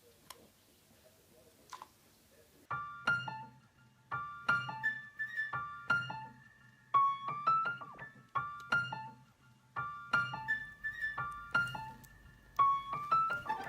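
Electric piano music: a short melodic phrase of plucky notes repeating over and over, starting about three seconds in after a few faint clicks.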